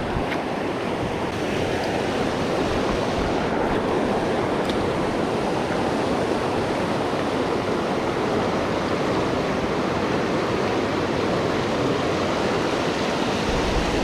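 Steady rush of river water pouring over rocky shoals, an unbroken wash of noise.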